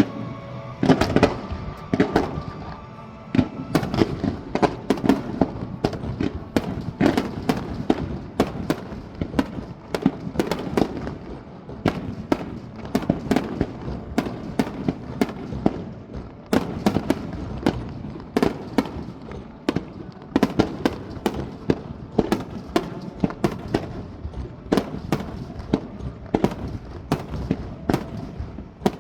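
Aerial fireworks going off in a rapid barrage: sharp bangs and booms, several a second, overlapping one another.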